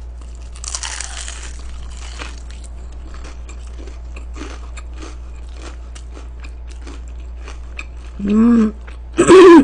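Crispy fried chicken crunching loudly in the mouth as it is bitten, then chewed with many short crackling crunches close to the microphone. A short hummed 'mm' comes near the end.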